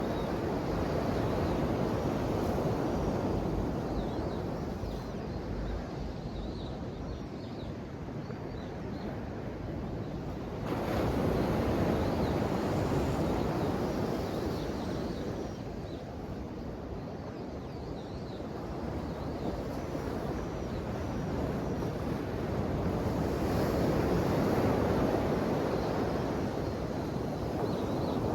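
Ocean waves washing in, a steady rushing that swells into louder surges about a third of the way in and again near the end.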